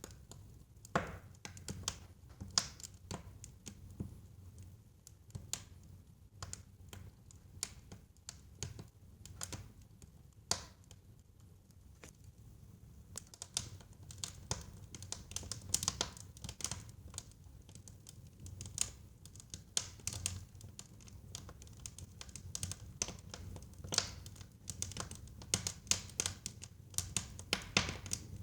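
Wood fire burning in a fireplace: a low rumble of flames under irregular sharp crackles and pops from the burning logs, growing busier and louder from about halfway through.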